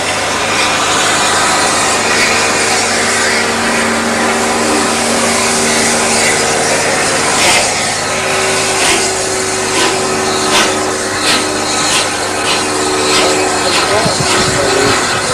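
Heritage railway train running, with a steady rumble and hum; from about halfway on, sharp clicks of the wheels over rail joints come faster and faster as the train picks up speed.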